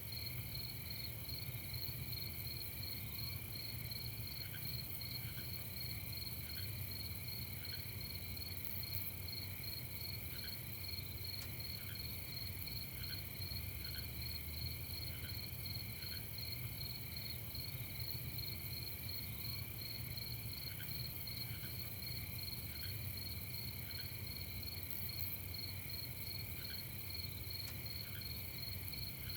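Night chorus of crickets: a steady, finely pulsing trill, with scattered short, lower chirps from another caller and a steady low hum underneath.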